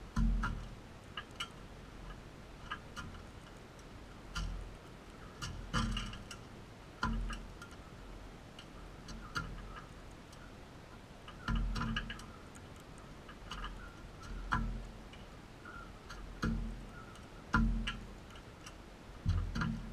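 Irregular knocks and clicks, about one every second or two, each with a dull thud underneath.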